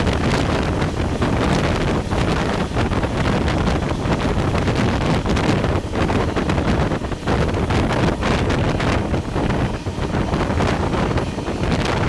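Wind buffeting the microphone over the steady running noise of the moving Carajás passenger train, with irregular faint knocks.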